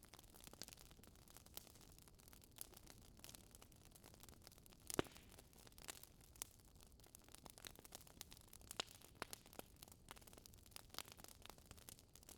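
Wood fire in a fireplace crackling softly: scattered faint pops and snaps over a low hiss, with one sharper pop about five seconds in.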